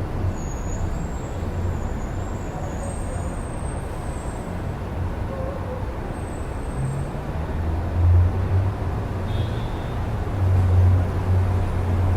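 Steady city road traffic heard through an open window: a continuous low rumble of passing cars and buses that swells twice in the second half as heavier vehicles go by. A faint high squeal sounds in the first few seconds.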